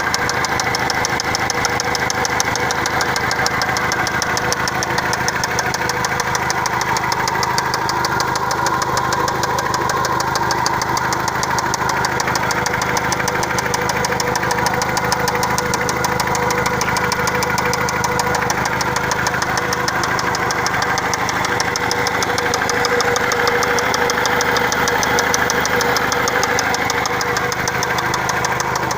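Mazda MPV's FS-DE 2.0-litre inline-four engine running steadily, with a rapid, even knocking from around the valve cover.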